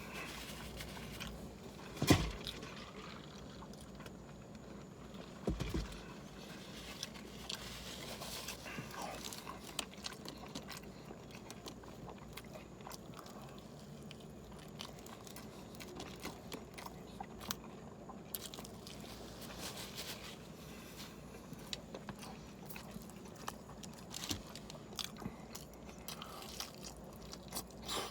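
A person chewing and biting a large multi-patty cheeseburger, with wet mouth sounds and many small clicks; two sharper knocks about two seconds and five and a half seconds in.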